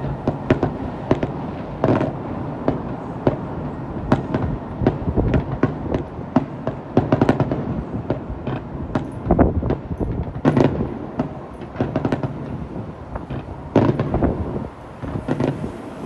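Aerial fireworks display: a quick succession of shell bursts, sharp bangs one after another over a continuous low rumble, with the loudest bangs clustered in the middle of the run.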